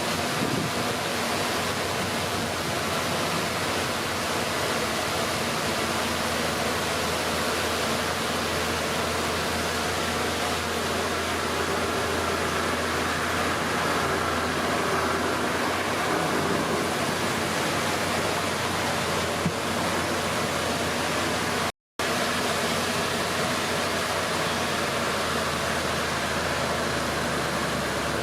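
Komatsu D31P bulldozer's diesel engine running steadily, heard as a constant rushing noise with a faint low hum; the sound cuts out for a split second about two-thirds of the way through.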